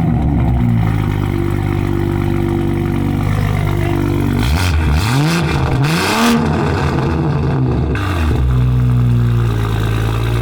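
Toyota Supra engine being revved. It climbs at the start and is held high for about three seconds, then is blipped twice, each time rising and falling, and drops back to idle shortly before the end.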